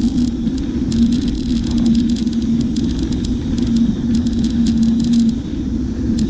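Bicycle in motion: a steady low rumble and hum with many quick clicks scattered through it.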